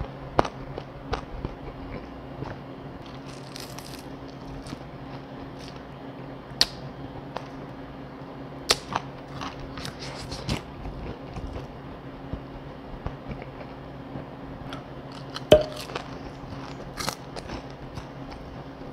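A person chewing food with the mouth closed, with scattered short crunches and mouth clicks, over a steady low hum.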